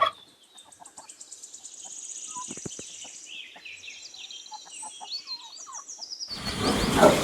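Soft, high-pitched bird chirps and trills with a few faint clicks. About six seconds in, a loud, rough, noisy sound starts abruptly.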